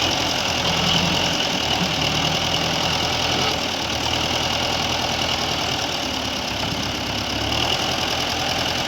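Belarus tractor's diesel engine running steadily at a low, idle-like speed.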